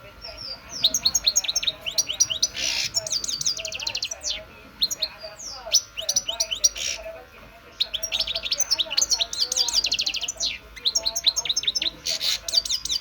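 European goldfinch singing: fast twittering runs of high chirps and trills, in several phrases with short pauses between them.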